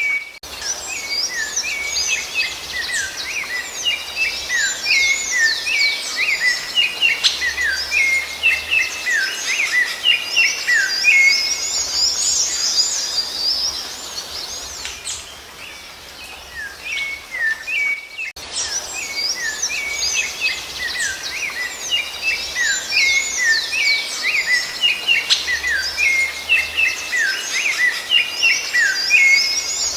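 Songbirds singing in a dense run of quick, high chirping notes. The song eases off about halfway through and starts up again a few seconds later.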